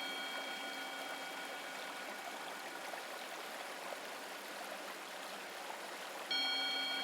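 Flowing stream water, a steady rushing trickle. A bell-like tone is fading out at the start, and a new one strikes about six seconds in and rings on, slowly fading.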